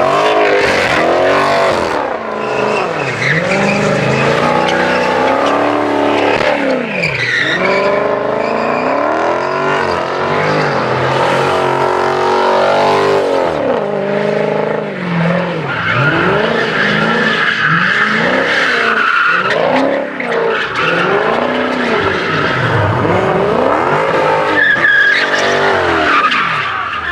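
A car drifting, its engine revving up and down over and over as the tyres skid and screech, with the longest tyre squeal about two-thirds of the way through.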